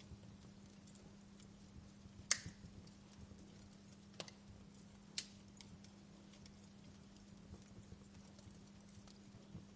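Wood fire crackling softly: scattered faint ticks with three sharper pops about two, four and five seconds in, over a steady low hum.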